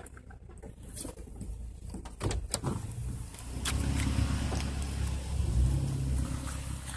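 Off-road truck engine running at low speed as it crawls a rough trail, getting louder after about two seconds, with a few sharp knocks and clunks from the body or suspension over the bumps.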